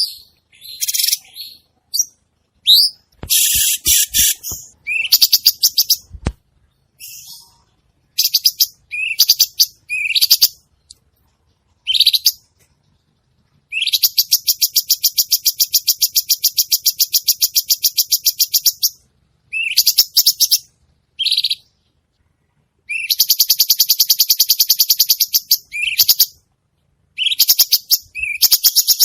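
Cucak cungkok songbird singing vigorously in short, high, upslurred notes mixed with long, fast, buzzing trills lasting several seconds each.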